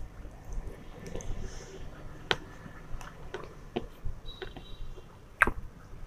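Close-up chewing of a mouthful of fried rice eaten by hand, soft and wet, with a series of sharp clicks and smacks, the loudest about five and a half seconds in.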